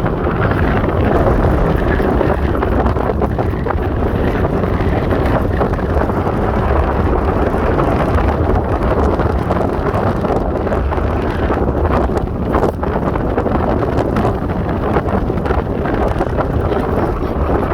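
Heavy wind buffeting the microphone over the steady noise of a moving vehicle, as from riding at speed.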